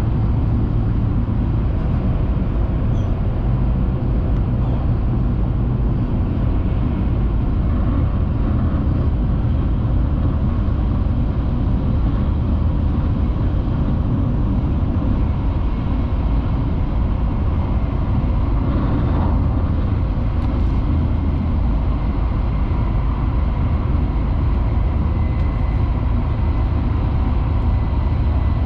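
Steady running noise heard inside a Hayabusa Shinkansen car: an even low rumble of the train on the rails, with a few faint steady tones above it.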